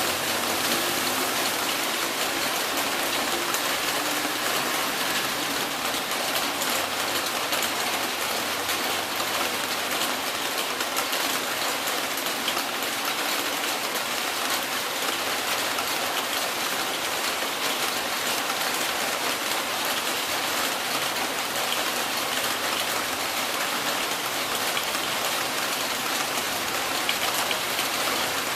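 Heavy rain falling steadily, a dense even hiss of drops. A passing vehicle's engine fades out in the first second or two.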